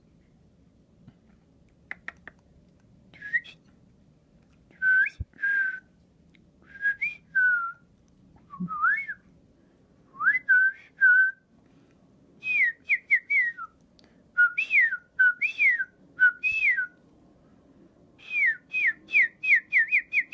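Whistled local bird calls, short rising and falling notes in separate phrases that come closer together, ending in a quick run of falling notes. They are meant to lure out a trapped bird, which does not answer them.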